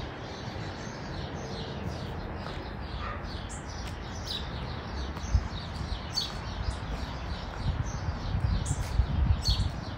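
Small birds chirping: repeated short, high notes that fall in pitch, about one or two a second, over a steady low rumble.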